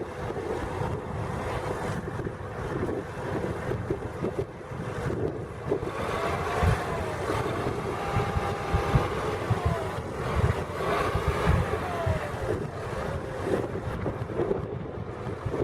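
Diesel engine of a County 1184 four-wheel-drive tractor running steadily under ploughing load, its note rising and falling twice near the middle, with heavy wind noise on the microphone.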